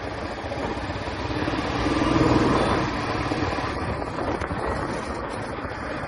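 Royal Enfield Classic 350's single-cylinder engine running, growing louder about two seconds in and then easing back.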